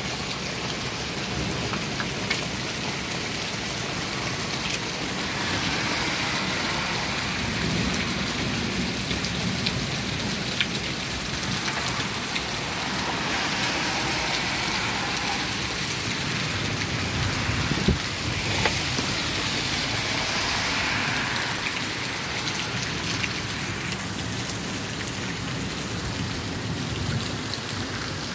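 Heavy rain pouring steadily, with scattered sharp ticks of hailstones striking. A car's tyres hiss past on the wet street about halfway through.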